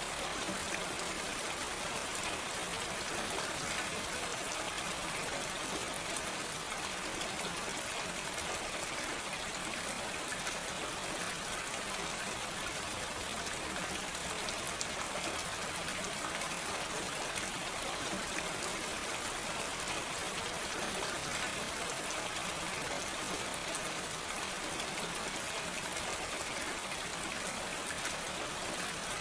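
Steady rain without thunder, drops falling densely and evenly on surfaces as a constant hiss.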